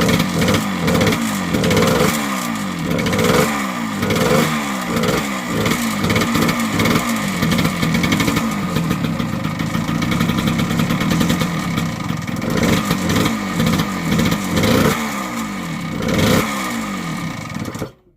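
1978 Yamaha DT100's small two-stroke single-cylinder engine running and revving up and down over and over, with steadier running in the middle stretch. The sound cuts off suddenly near the end.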